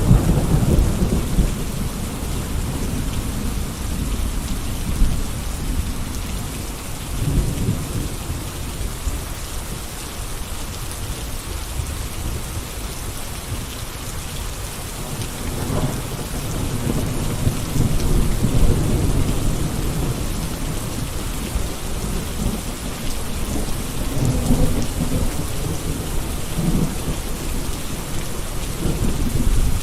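Steady rain falling, with a low rumble underneath that swells and ebbs.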